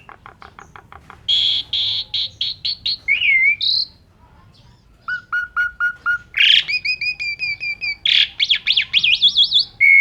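Asian pied starling (jalak suren) singing a loud, varied song: a run of quick clicks, a fast high trill, whistled slurs, then series of repeated notes and a rapidly wavering warble near the end.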